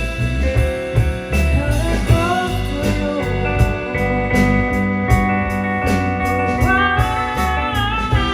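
Band music: a guitar plays a lead line of bending, sliding notes over bass and drums.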